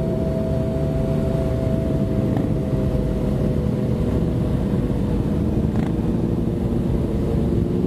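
Motorcycle cruising at a steady speed, heard from a helmet camera: a constant rush of wind over the microphone mixed with the engine's even running note, with no revving.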